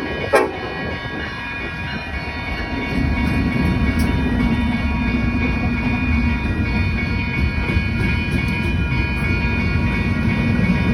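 Union Pacific SD70ACe diesel-electric locomotive leading a freight train past, its low engine rumble growing louder about three seconds in under steady high-pitched tones. A short horn blast sounds just at the start.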